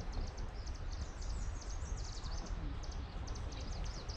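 Small songbirds singing: dense runs of quick high-pitched notes, over a steady low rumble.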